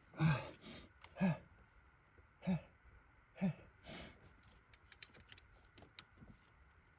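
A man grunting four times with effort, about a second apart, as he strains on a leverage bar against a very tight bolt, followed by a few faint clicks.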